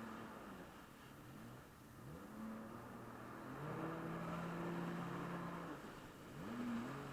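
Jet ski engines speeding up in surges, about three times: each time the pitch climbs and then holds steady, over a steady hiss.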